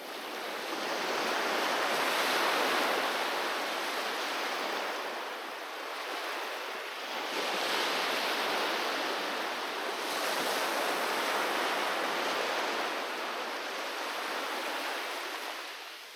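Sea waves surging and washing onto the shore, swelling in about three surges and ebbing away near the end.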